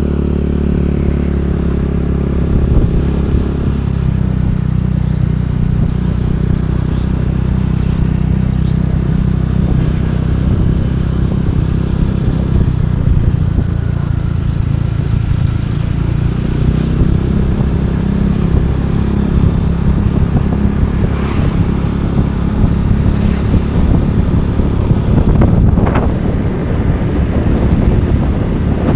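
Motorcycle engine running steadily under way, with wind and road noise; the engine note shifts a couple of times as the speed changes.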